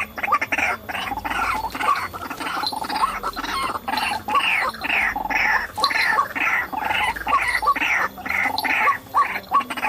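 White-breasted waterhen (ruak-ruak) calling: a fast, unbroken run of harsh, repeated 'kru-ak' notes at about three a second.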